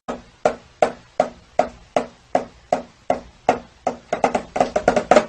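Evenly spaced percussive knocks, about three a second, each with a short hollow ring, coming faster and in pairs over the last second or so.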